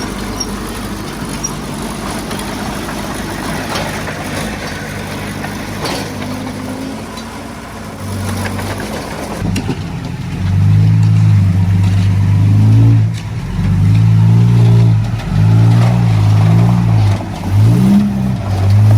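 Diesel engine of heavy earthmoving equipment running steadily. About halfway through it gets much louder and works hard, its pitch repeatedly rising and falling as the throttle is opened and eased.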